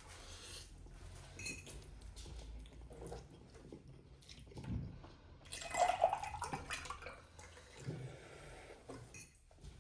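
Quiet table sounds: dishes and utensils clinking, with liquid sounds. The loudest moment comes about six seconds in.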